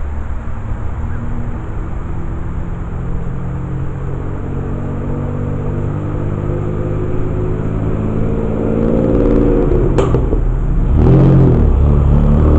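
A motor vehicle's engine runs with a steady low hum that grows louder. There is a sharp click about ten seconds in, then a brief dip and rise in the engine's pitch.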